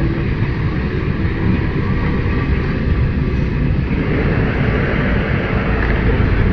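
Electric tram running on its rails, a steady loud rumble with no breaks.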